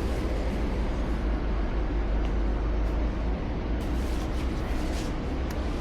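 Steady outdoor rumble from wind buffeting the microphone of a camera carried on a run, with a broad noisy hiss and a few faint ticks.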